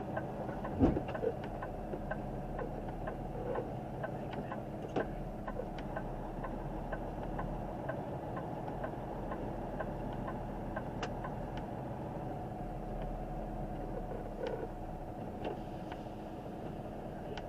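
Semi truck's engine running steadily, heard as a low hum with faint, regular ticking and a couple of light knocks about a second in.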